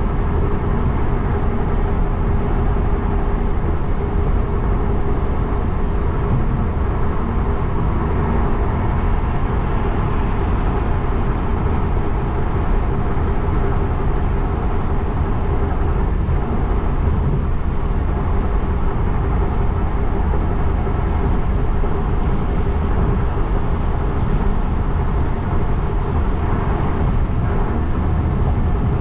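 Steady road noise of a car driving: a continuous low rumble of tyres and engine with no change in level.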